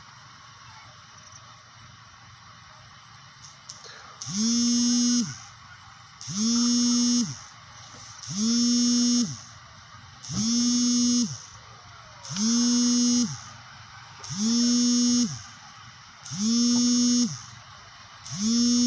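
A small electric motor buzzing in regular pulses from about four seconds in, each about a second long and about two seconds apart, eight in all. Each buzz rises in pitch as it starts and falls as it stops.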